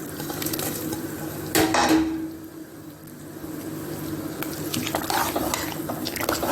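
Cabbage, carrots and seasoning being tipped into a pot of coconut milk, with utensils knocking against the pot and liquid sloshing over a steady low hum. The loudest knock comes about one and a half seconds in and rings briefly.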